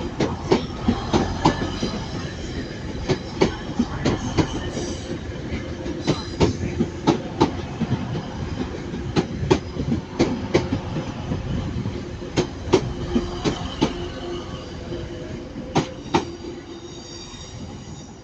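Diesel multiple-unit train moving through the station, its wheels knocking over rail joints and pointwork in an uneven series of clacks over a steady rumble, with some wheel squeal; the sound fades toward the end.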